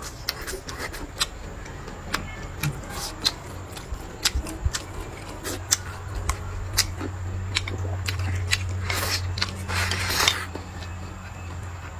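Mealtime eating sounds: scattered sharp clicks and taps of utensils and chewing. A low steady hum comes in about five seconds in, and there is a short rushing noise near the end.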